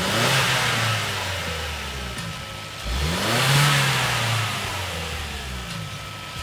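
Kia Stinger's 2.0-litre turbocharged four-cylinder, breathing through an aFe Takeda cold air intake, revved twice with the hood open: each time the pitch rises, holds briefly and falls back, and a third rev begins right at the end.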